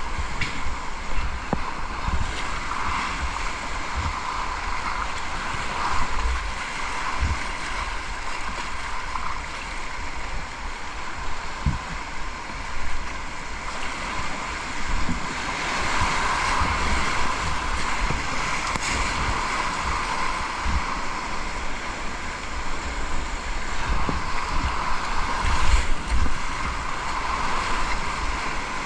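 River water rushing around a kayak on a whitewater descent, a steady hiss throughout, with wind buffeting the microphone in irregular low rumbles.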